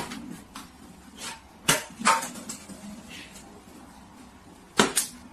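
Several sharp knocks or clicks in a small room: one at the start, two close together a little under two seconds in, and a quick pair near the end.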